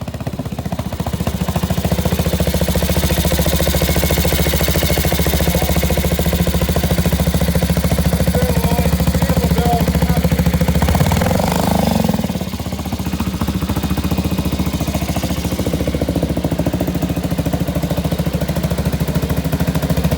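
1982 Ducati 750 TT1's Pantah-based V-twin running with a loud, even pulsing beat. It picks up slightly before dropping back to a steady idle about twelve seconds in.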